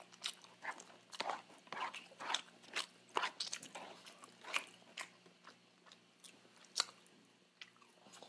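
Close-miked chewing of a mouthful of Jollibee Jolly Spaghetti, with irregular soft mouth clicks throughout.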